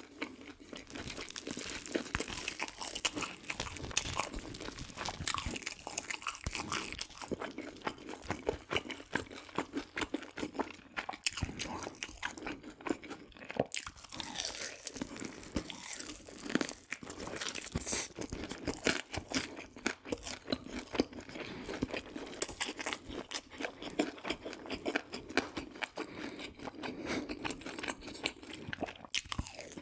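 Close-miked crunching and chewing of crispy fried food, with many sharp, irregular crunches as the crisp batter breaks between the teeth.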